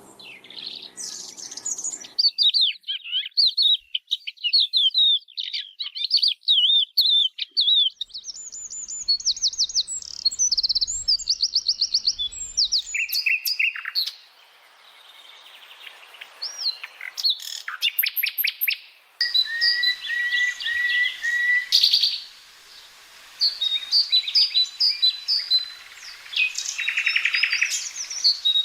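Birds chirping and singing: rapid runs of high chirps and trills from several different calls, the mix of calls changing abruptly about two seconds in and again about nineteen seconds in.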